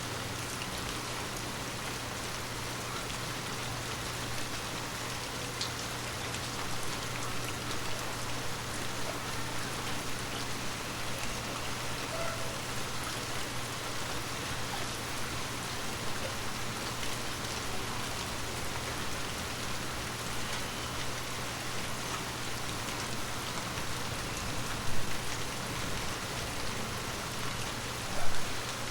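Steady, gentle rain pattering on forest leaves, with two brief louder thumps near the end.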